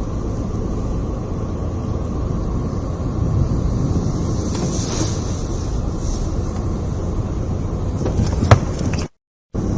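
Strong cyclone wind rushing over the microphone as a steady low rumble, with a sharp knock near the end, cut off suddenly about nine seconds in.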